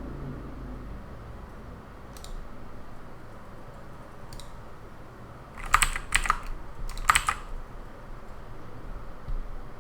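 Computer keyboard typing in two short bursts of keystrokes past the middle, with a couple of faint single clicks earlier, over a steady background hiss.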